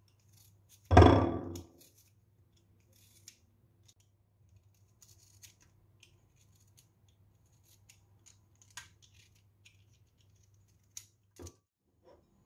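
Household objects being handled: one loud knock with a short ringing decay about a second in, then scattered light clicks and taps.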